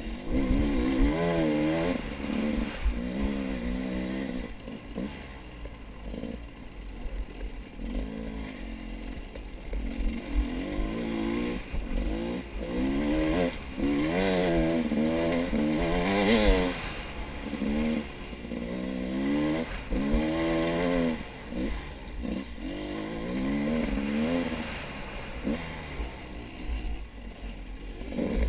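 A vehicle engine whose pitch rises and falls over and over as it revs, over a low rumble, with scattered rattling and clatter.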